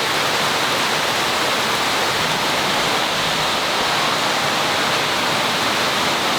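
Very heavy tropical rain pouring down in a steady, loud hiss: a monsoon-like downpour.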